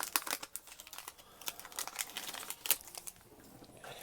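Foil wrapper of a Pokémon TCG booster pack crinkling as it is torn open and handled: a quick run of crackles near the start, then sparser crinkles and clicks.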